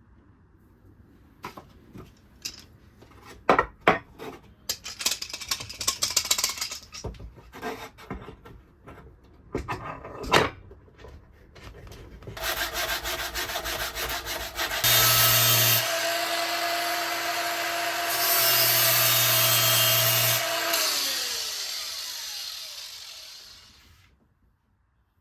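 Irregular knocks and scrapes of metalworking by hand. Then a power tool, most likely an angle grinder with a flap disc, spins up and grinds steel in two loud passes before winding down with a falling whine.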